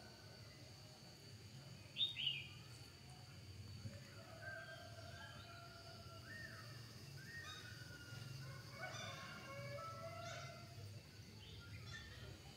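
Birds chirping on and off, with two louder chirps close together about two seconds in, over a steady low hum and a faint high steady whine.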